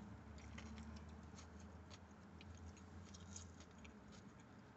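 Faint chewing of a mouthful of burger: soft, irregular wet mouth clicks and smacks. A low steady hum runs underneath and stops about four seconds in.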